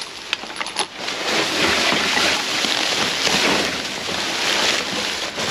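Rummaging through dumpster trash: dense rustling and crinkling of bags and packaging that swells and fades, after a few sharp clicks in the first second.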